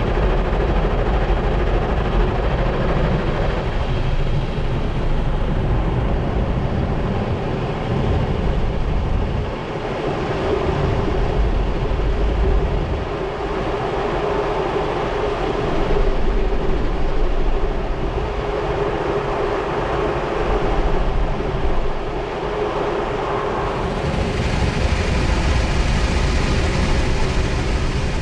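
Automatic car wash machinery at work: a loud, steady rush of water spray and motors over a low rumble and a steady hum, growing hissier near the end.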